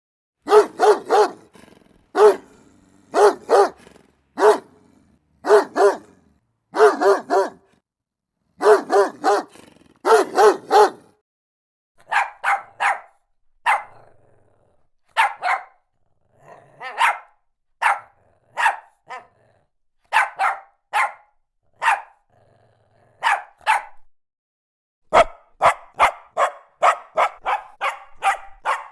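Dogs barking in short bursts. Deeper barks come in groups of one to three for about the first eleven seconds. Higher-pitched, more spaced-out barks follow, then a faster run of barks in the last few seconds.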